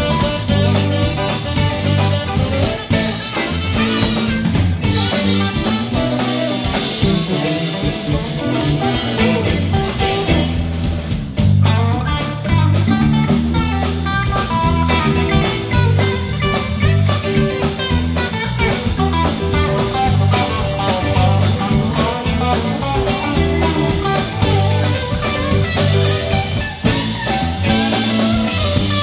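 Instrumental break of a blues-rock song: guitar playing over a drum kit with a steady beat.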